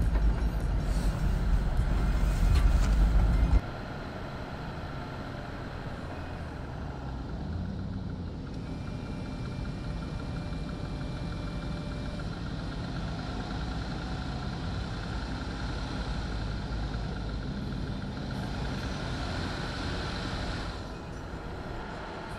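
Jeep engine idling and running at low revs, a steady drone. A heavier low rumble for the first three and a half seconds cuts off abruptly, leaving the quieter idle.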